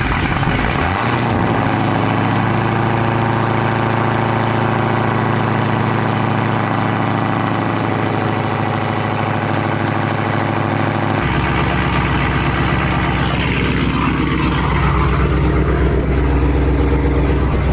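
Dodge Hellcat's supercharged 6.2-litre Hemi V8 running steadily at idle after a start. About eleven seconds in, the sound changes abruptly to a deeper, heavier rumble.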